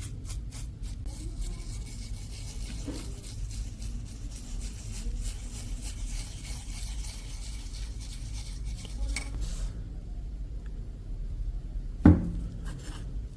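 Light scraping and rubbing of hand work on the cleaver over a low steady hum, quieter after about ten seconds, then a single sharp knock about twelve seconds in.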